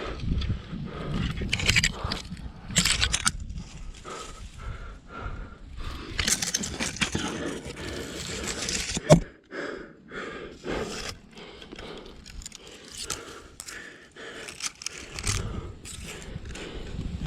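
A climber working up a rock chimney: irregular scraping and rustling of body, clothing and gear against rock, with one sharp knock about nine seconds in.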